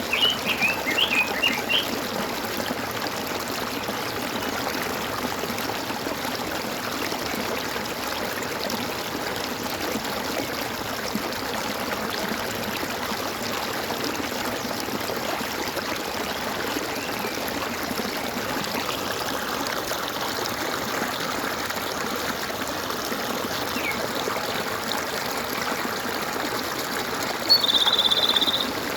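Stream water steadily gurgling and trickling. A bird chirps several times in the first two seconds, and a short buzzy trill stands out about a second before the end.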